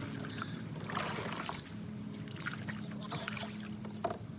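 Water splashing and trickling in short irregular bursts, over a steady low hum.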